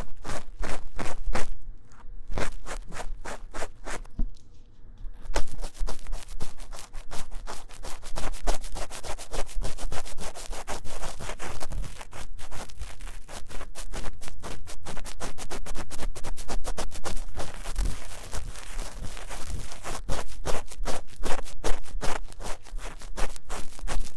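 Rapid scratching and rubbing strokes on the ear of a 3Dio binaural microphone, simulated ear cleaning, many strokes a second. The strokes thin out and grow softer briefly a few seconds in, then pick up again.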